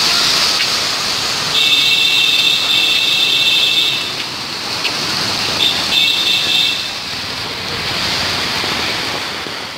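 Heavy monsoon rain pouring down and splashing onto pavement, a loud steady hiss. Twice a high, steady horn-like tone sounds over it, once for about two and a half seconds and again for about a second.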